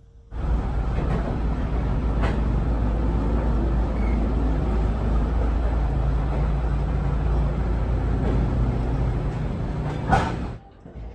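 Loud steady rumble and rattle of a moving train, heaviest in the bass, cutting in suddenly and cutting off just as suddenly, with a sharp knock just before it stops.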